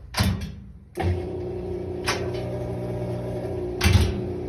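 Washing machine drain pump starting about a second in and humming steadily, with a few knocks and clicks over it. The pump runs on and won't stop draining, a fault that a new control board cures.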